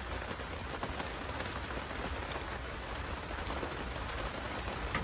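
Steady rain falling, an even hiss with a few faint drop ticks, over a steady low rumble.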